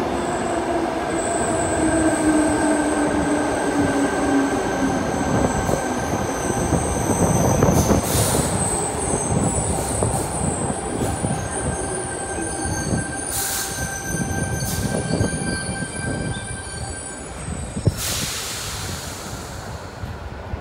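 Sydney Trains Tangara electric train running in along an underground platform: a falling motor whine under a steady wheel rumble, with thin high-pitched wheel squeal. Several short bursts of hiss break in, and near the end a sharp knock is followed by a longer hiss.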